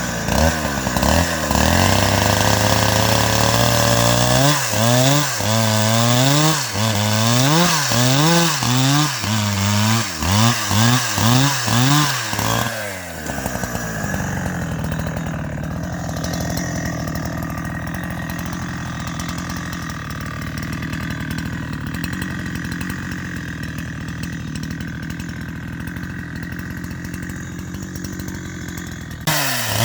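Chainsaw engine revved up and down repeatedly, its pitch rising and falling about once a second. About halfway through it drops to a steady idle.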